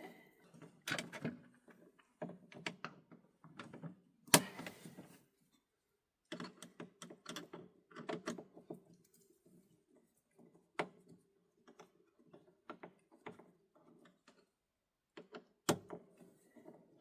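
Hands working on a portable generator: clicks, knocks and rattling of its cover, clips and parts, with a sharp knock about four seconds in and another near the end.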